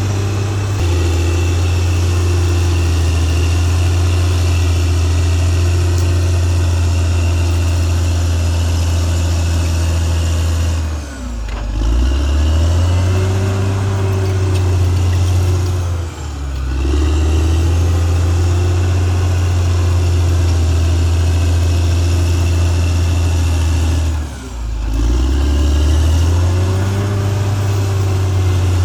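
Caterpillar D6R XL bulldozer's diesel engine running hard and steadily; three times its revs sag briefly and climb back up.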